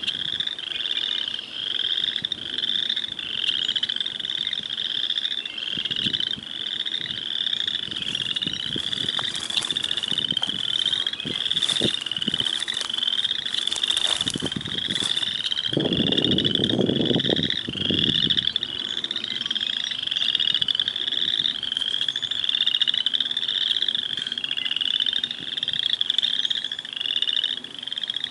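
A frog chorus at a lake: high, pulsed calls repeat about twice a second without a break. A little past halfway, a lower, louder rasping call lasts about two seconds.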